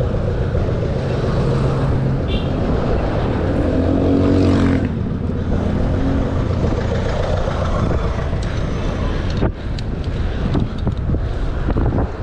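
Wind rushing over the microphone of a moving bicycle, with road traffic. A motor vehicle passes close by about four to five seconds in, rising to the loudest point and then falling away.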